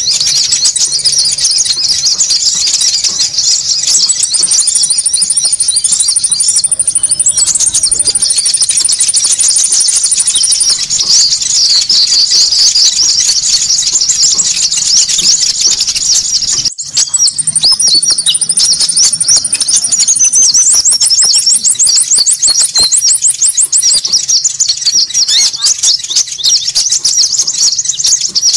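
Bird-lure recording of konin calls: many high chirps and twitters overlapping in a busy, noisy chatter, with a fast high trill repeating over it. The sound breaks off for a moment about 17 seconds in, then goes on.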